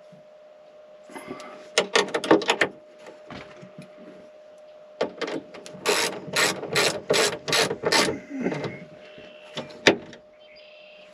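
Socket ratchet clicking in two bursts of rapid strokes, the second longer, as a battery cable terminal is tightened down, over a faint steady hum.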